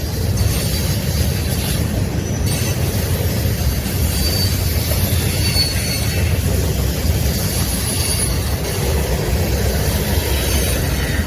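Train passing close by: a steady rumble of wheels on rail, with short high wheel squeals now and then.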